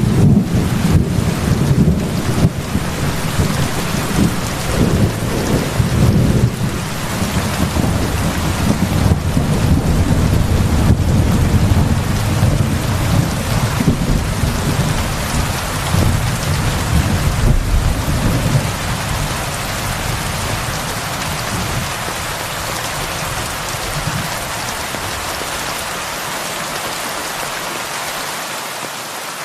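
Heavy rain falling steadily, with a long low rumble of thunder that rolls through the first part and dies away over the last third.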